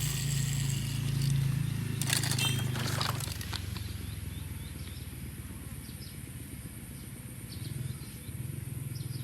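Plastic toy-car packaging crinkling and clicking as it is handled, about two to three and a half seconds in, with faint ticks later, over a steady low hum.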